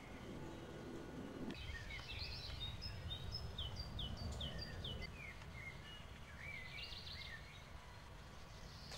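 Birds chirping: runs of short falling chirps, about three a second, over a low steady rumble of background noise.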